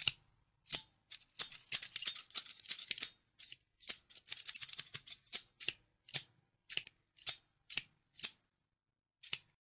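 Scissors snipping again and again, first in quick flurries of short cuts, then in single snips about half a second apart, and one last snip near the end.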